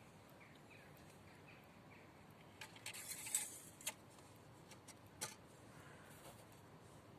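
Faint clicks and a brief rustling scrape about three seconds in, with a sharper click just after and another a second later, over a quiet background.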